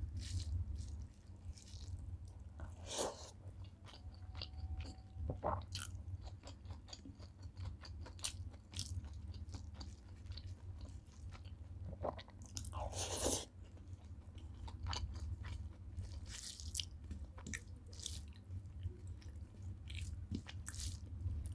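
Close-miked chewing and mouth sounds of a man eating rice with fried okra (bhindi fry) by hand, with soft clicks and squishes of fingers working the rice on the plate. A steady low hum runs underneath.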